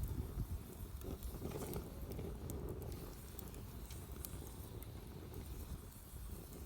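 Wood campfire burning, with scattered small crackles and pops over a steady low rumble.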